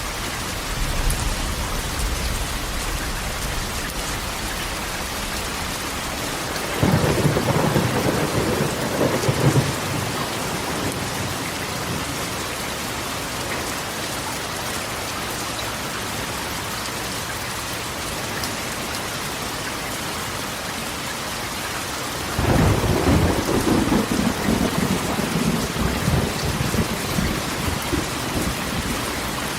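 Steady rain drumming on a corrugated metal roof, with two rolls of thunder, one about seven seconds in and a longer one about two-thirds of the way through.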